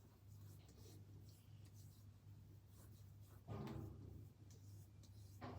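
Near silence: a faint low hum of room tone, with a soft brief rustle of handling about three and a half seconds in.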